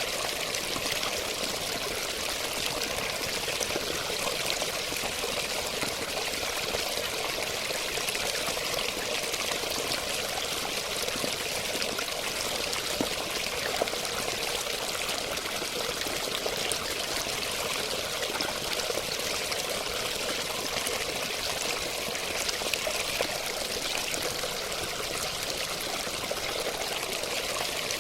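Running water, a steady rush of flowing and splashing with no change in level.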